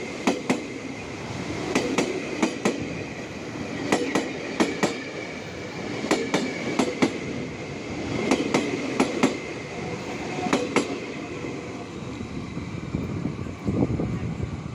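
Tokyo Metro 6000-series KRL electric commuter train passing close by, its wheels clacking over a rail joint in quick pairs, one set of axles after another, about every two seconds, over a steady rumble. The clacking stops about eleven seconds in as the last cars pass.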